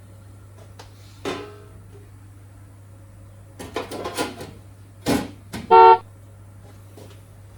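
Ultrasonic parts cleaner being set to run again: the tank hums steadily while its controls are handled, with a short tone about a second in, a few clicks and knocks around the middle, and a loud short electronic beep near six seconds.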